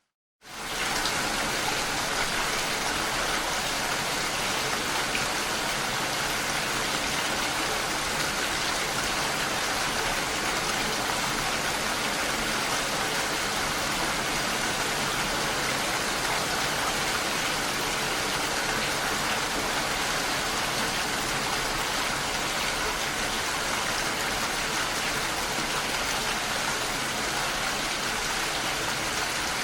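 Steady rain, an even hiss with no separate drops standing out. It comes in at once after a moment of silence at the very start.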